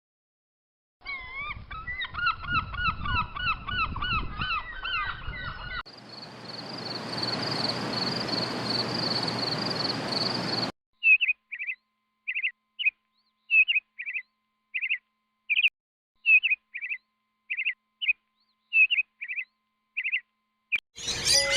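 A run of separate animal-call recordings. First come repeated honking calls like geese. Then a steady high-pitched buzz over a hiss, and then a string of short, high bird chirps about two a second.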